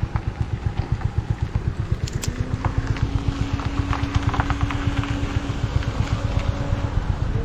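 Motorcycle engine running with an even low pulsing beat that quickens about two seconds in as the bike picks up speed, with a steady whine coming in at the same time.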